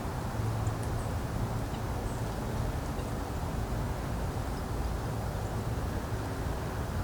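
Steady low outdoor rumble with a few faint, very short high chirps from small birds scattered through it.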